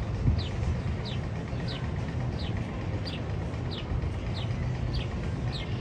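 A short, high, bird-like chirp repeated steadily about one and a half times a second, each chirp falling slightly in pitch, over a steady low rumble.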